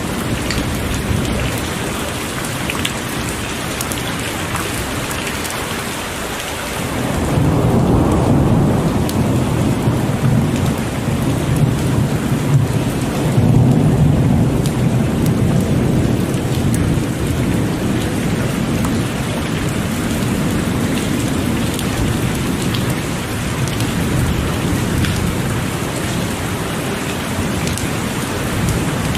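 Heavy rain falling steadily, with a long rolling rumble of thunder that builds about seven seconds in and fades slowly over the next ten seconds or so.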